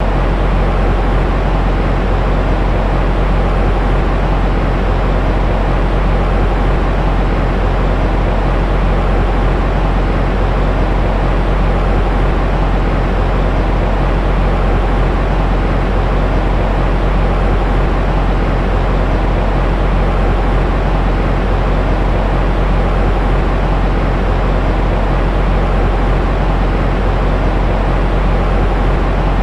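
White noise for baby sleep: a steady, unchanging rush of noise, heavy in the low end with little treble, with no breaks or changes.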